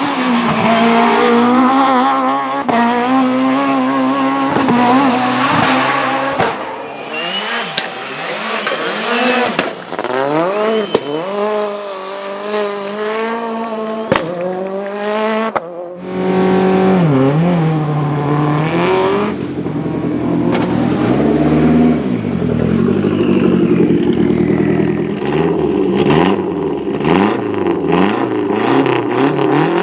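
Competition rally car engines at high revs, the pitch climbing and dropping over and over through gear changes and lifts. About halfway through, the sound cuts to another car.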